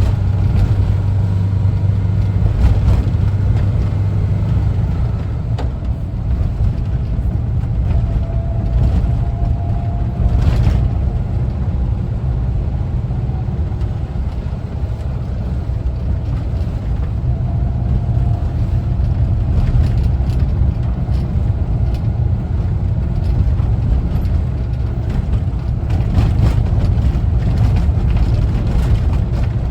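A 1974 Volkswagen Westfalia camper bus's air-cooled flat-four engine running steadily under a low road rumble while the bus is driven.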